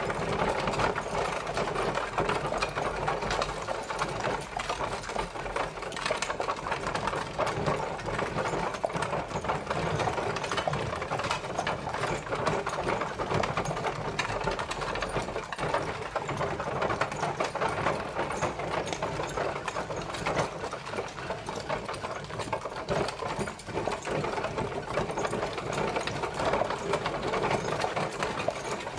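Horse-drawn carriage travelling: a steady, dense rattle and clatter of the moving coach and wheels, unbroken throughout.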